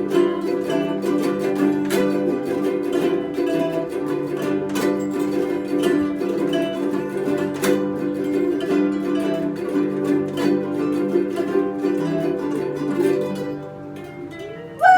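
Plucked string instruments playing a tune over steady chords. The music drops to a quieter ringing tail near the end, and a short, loud sound rising in pitch comes in right at the close.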